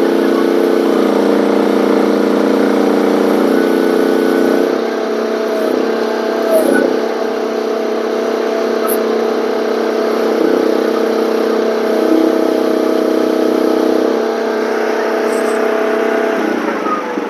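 One-ton mini excavator's engine running steadily under hydraulic load while the tilt bucket is worked side to side. Its note shifts about five seconds in and drops near the end.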